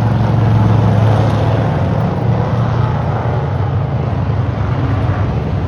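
Race cars' engines running around an oval track, a steady, loud sound with no break.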